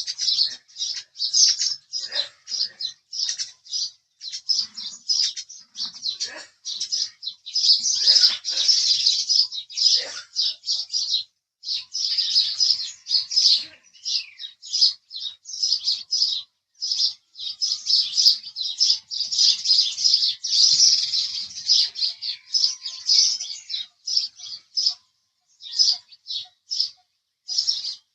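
House sparrows chirping: a rapid string of short chirps, thicker in places, with brief pauses between runs.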